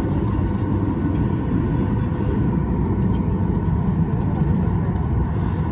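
Steady low rumble of aircraft cabin noise inside a Boeing 737 MAX 8, with a faint, even hum of several steady tones on top.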